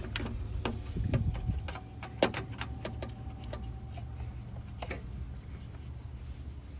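Small plastic clicks and knocks as an ignition coil and its connector plug are handled and pushed into place, with one sharper click about two seconds in. A steady low hum runs underneath.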